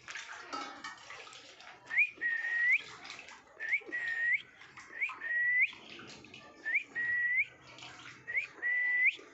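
Whistling: five identical short whistles, one about every second and a half, each a quick rising chirp into a held note that flicks up at the end.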